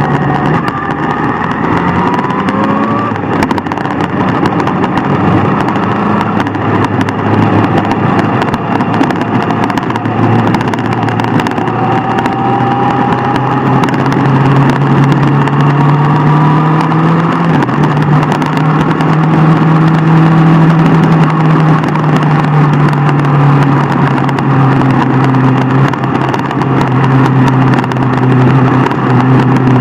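Superbike engine running at riding speed over a constant rushing noise, its pitch drifting slowly up and down as the throttle changes.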